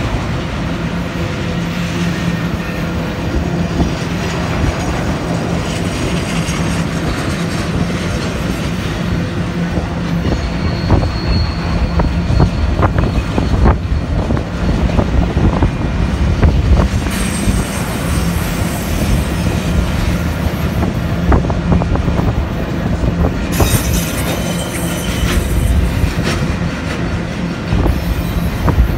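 Loaded autorack freight cars rolling past close by with a steady rumble, their wheels clicking and knocking over rail joints, and a brief high wheel squeal about eleven seconds in.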